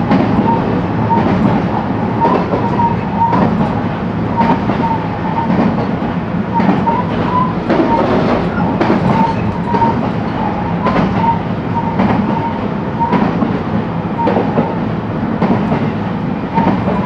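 Interior running sound of a JR West 223-series electric multiple unit at speed: steady rumble of the wheels on the track with a high steady whine, and the clack of wheels over rail joints about once a second.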